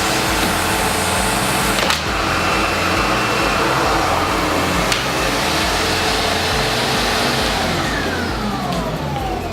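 Windsor Sensor upright vacuum cleaner running steadily, with a couple of sharp knocks. From about seven and a half seconds in, its motor winds down in a falling whine.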